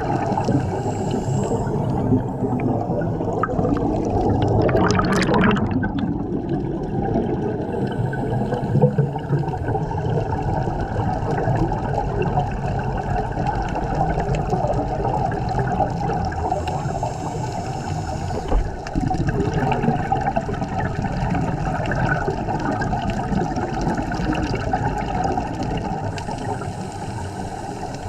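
Underwater sound on a scuba dive: a steady gurgling rush of divers' exhaled air bubbles, with a brief sharper hiss about five seconds in.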